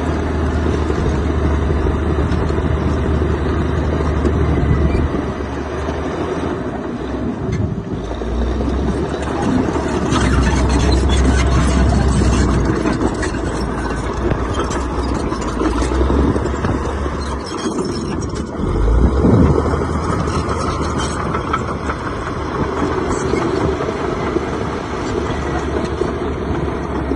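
Heavy earthmoving machine's diesel engine running under load, its note dipping and picking up again a few times.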